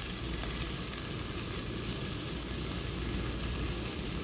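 Chicken pieces frying in ghee in a pot: a steady sizzle.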